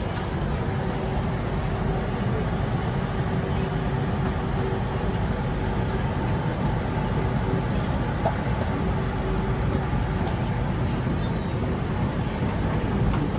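Steady low rumble of a Singapore MRT train and station, with a faint steady hum held for several seconds in the middle.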